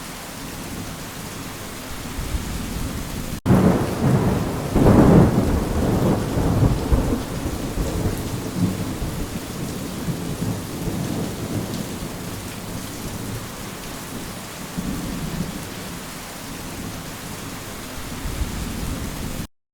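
Steady rain with a sudden loud roll of thunder about three and a half seconds in, rumbling on for several seconds and fading back under the rain. The sound cuts off abruptly just before the end.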